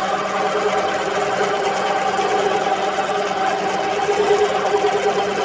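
Manual milling machine running steadily, its gear-driven spindle turning a drill bit that is boring into metal, with a continuous mechanical whir and rattle.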